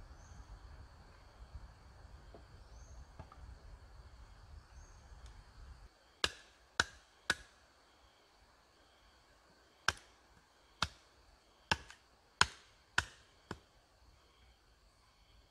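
Nine sharp chopping blows on wood. Three quick strikes come about six seconds in, then a pause of two to three seconds, then six more about half a second to a second apart. Faint insect chirping goes on behind.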